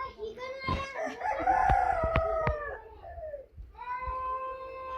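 A rooster crowing twice: a bending call about a second in, then a long, steady call near the end, with a few sharp clicks in between.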